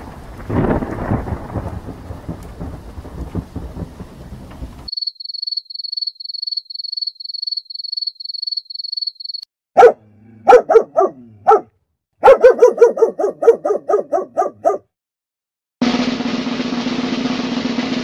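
A run of stock sound effects: a thunderstorm rumbling with rain for about the first five seconds, then crickets chirping in a steady high pulse of about two to three chirps a second, then a dog barking, a few barks and then a quick string of about ten. Near the end a drumroll starts.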